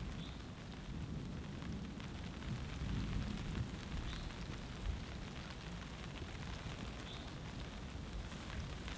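Light rain falling, over a steady low rumble. Three faint short high chirps come about three seconds apart.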